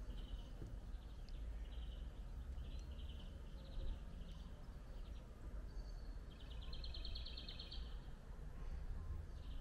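Small birds chirping in short high trills, about once a second, with a longer rapid trill lasting about a second and a half near two-thirds of the way through. A low steady rumble runs underneath.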